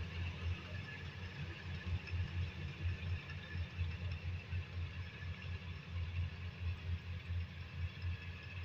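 Combine harvester engine running steadily, a low hum that pulses unevenly.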